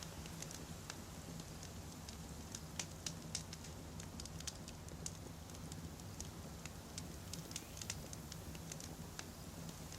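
Wood campfire burning, with irregular sharp crackles and pops from the burning logs over a steady low rumble of the flames.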